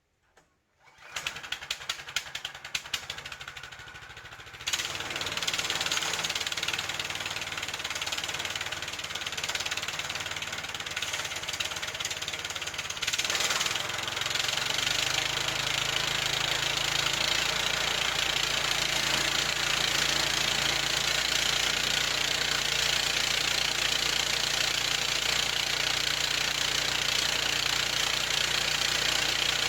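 Gasoline engine of a band sawmill starting about a second in and running, stepping up to a higher, louder speed a few seconds later. About thirteen seconds in a louder hissing sound joins and holds steady.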